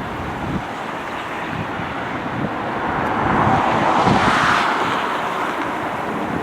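Wide-body jet airliner's engine noise swelling to a peak about four seconds in and then fading as it passes, with wind buffeting the microphone throughout.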